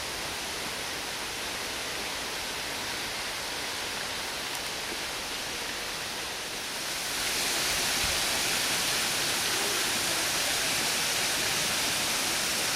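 Steady rush of running water, stepping up in level about seven seconds in.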